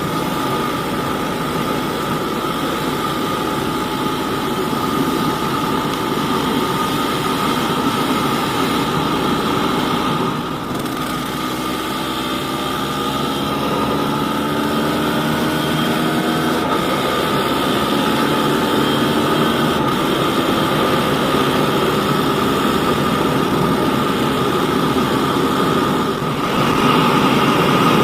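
Yamaha DT200WR's single-cylinder two-stroke engine running while the bike is ridden, its pitch rising and falling with the throttle, with a brief drop in level about ten seconds in.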